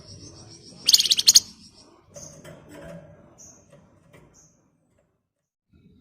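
Flamboyan cage bird singing: one loud, rapid, shrill rattling trill (its ngebren) about a second in, followed by a few short high chips.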